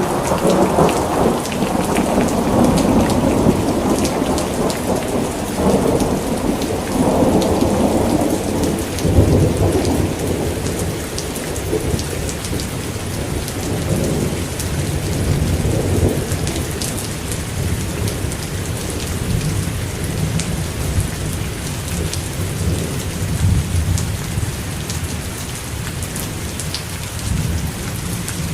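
Steady rain falling, with a long roll of thunder that breaks just before and rumbles on, slowly fading over the first fifteen seconds or so.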